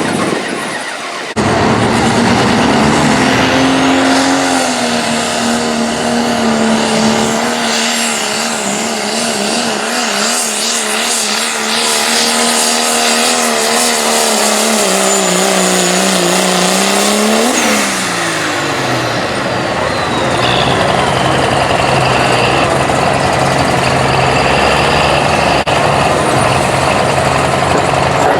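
Turbocharged diesel engine of a 3.0 diesel class four-wheel-drive pulling truck at full throttle under the load of a pull, its pitch sagging and wavering as the sled bears down. About 18 seconds in the engine note jumps briefly and then falls away as the throttle comes off, with a falling turbo whistle, settling to a lower steady drone.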